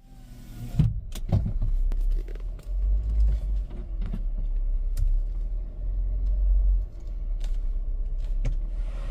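Low, steady rumble of a car heard from inside, swelling twice, with a scatter of sharp clicks and knocks, the loudest about a second in.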